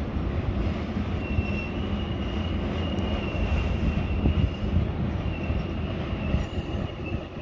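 Train passing on the spiral track: a steady low rumble of wheels on rails, with a thin high squeal that comes in about a second in and fades out and back near the end.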